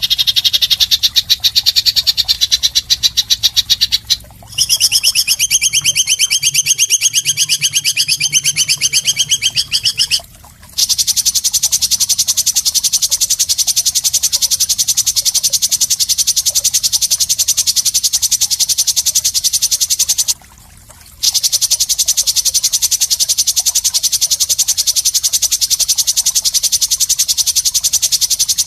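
Masteran bird-song training recording: a harsh, rapid rattling call, very fast repeated notes, looped with three brief gaps where the track is cut.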